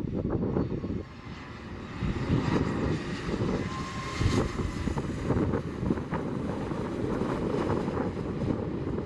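Airliner engines rumbling steadily as an aircraft moves at the airport, with a faint whine in the middle, and gusts of wind buffeting the microphone.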